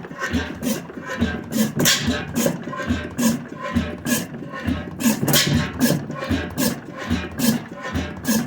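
1898 Crossley gas engine with hot-tube ignition running, an even rhythm of sharp clicks over low puffs at about two to three a second.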